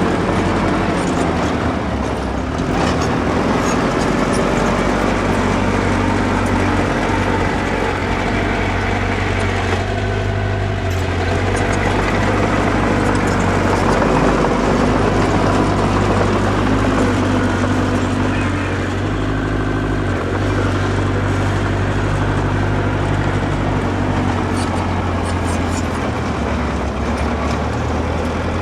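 Diesel engine of heavy earthmoving machinery running steadily under load, its low hum shifting a little in pitch now and then.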